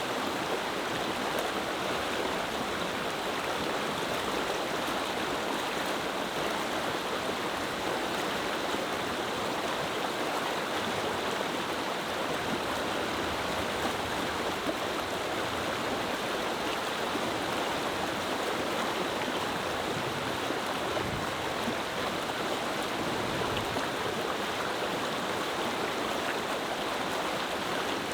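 Clear mountain river flowing: a steady, even rush of water.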